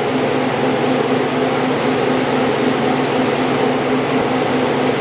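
Steady mechanical hum of a fan or air-conditioning unit, a constant low drone with a hiss over it.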